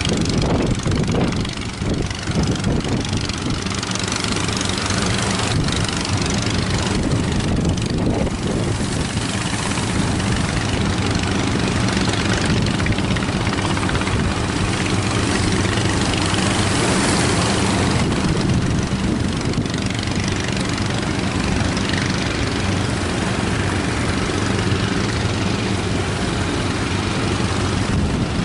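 A fishing boat's engine running steadily at an even speed, under a constant rush of wind and water noise.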